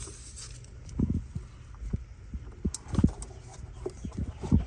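Dull, low thumps and knocks from hands working parts loose under the hood, one about a second in, another about three seconds in and a quick cluster near the end, over a steady low hum.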